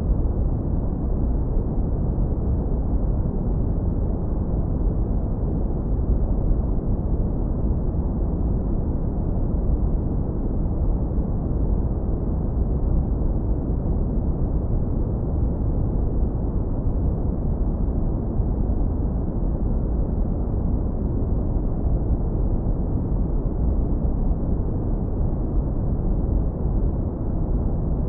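Steady, deep brown noise, low-pass filtered so that only a warm rumble remains, with no changes or events.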